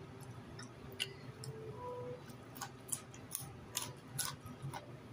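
Irregular, sharp crunches of someone chewing raw vegetables close to the microphone, several of them bunched in the second half.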